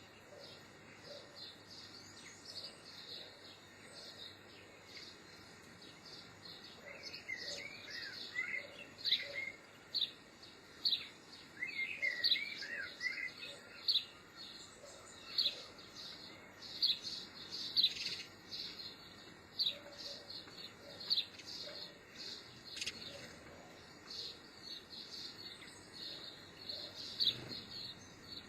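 Small birds chirping: many short, sharp high chirps repeated irregularly, with a brief lower warbling phrase twice.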